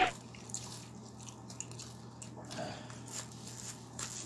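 Faint eating sounds: a person chewing crispy fried chicken, with scattered small crunches and clicks.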